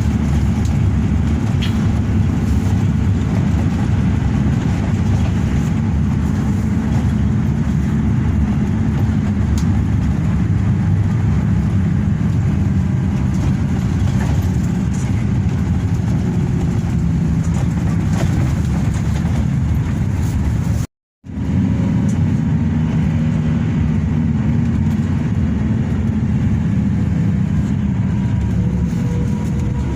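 Steady engine and road rumble of a Hino RK8 coach heard inside the passenger cabin while the bus is driving. The sound cuts out completely for a moment about two-thirds of the way through, then resumes unchanged.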